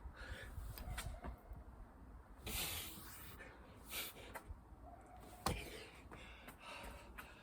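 A person breathing hard from exertion, with two forceful exhales a few seconds in, amid scattered knocks and scuffs of movement and one sharp click about five and a half seconds in.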